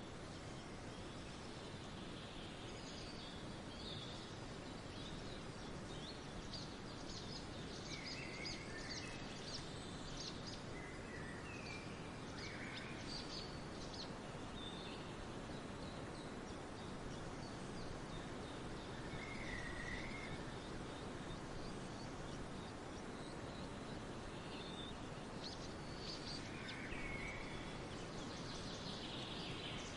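Several songbirds calling and chirping over a steady background hiss, with short slurred calls dotted through and brief high chirps between them.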